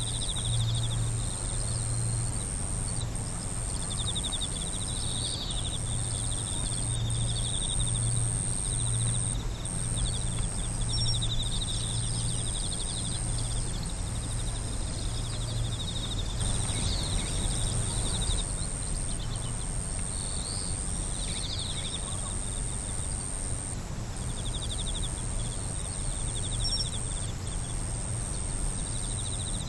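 Night insects calling together: one keeps up a continuous high-pitched trill while others give repeated rapid pulsing chirp trains every second or two, over a low steady hum.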